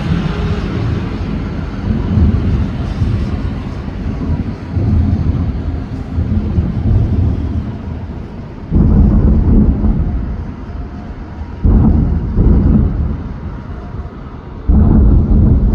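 Aerial fireworks bursting overhead, with a continuous low booming rumble. Three loud bursts come near the middle and toward the end, each dying away in a rolling echo.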